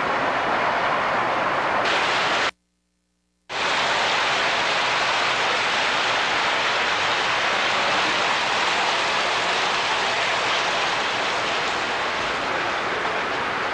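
Steady rushing rumble of a train running along the track. The sound drops out to silence for about a second, around two and a half seconds in, then carries on.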